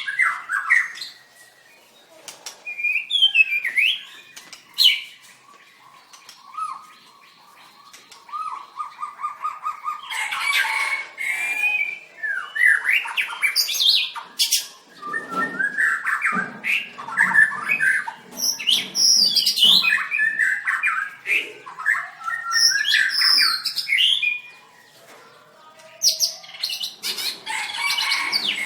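White-rumped shama singing: bursts of varied, gliding whistles and chirps separated by short pauses, with a quick run of repeated low notes about a third of the way in.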